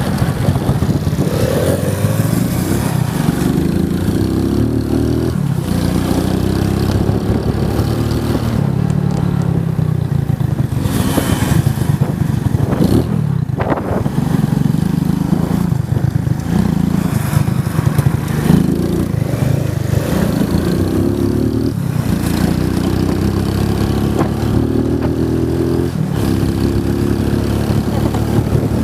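Motorcycle engine under hard acceleration, its pitch climbing and then dropping sharply again and again as it shifts through the gears, with an occasional sharp clatter.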